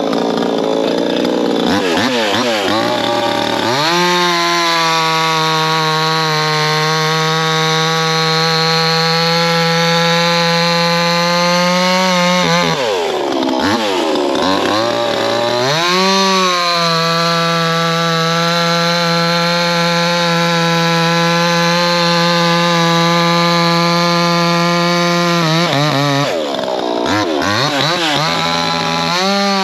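Proyama 68cc two-stroke chainsaw running at full throttle while cutting hardwood, white oak and maple. Its note holds steady through each cut and drops off and revs back up three times: about two seconds in, near the middle, and near the end.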